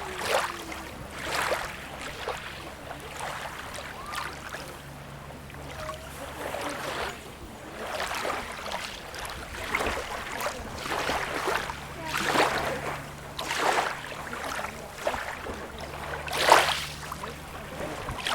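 Small sea waves lapping and splashing at the shore, a short splash every second or so, the loudest about two seconds before the end, over a faint steady low hum.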